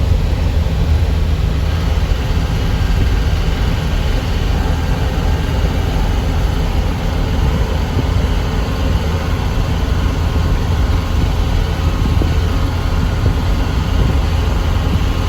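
A truck driving on the road: a steady, loud low rumble of engine and road noise that holds even throughout.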